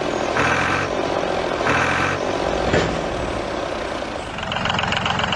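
Heavy truck-type engine running steadily with a low hum. Twice in the first half, a higher-pitched sound about half a second long rises over it.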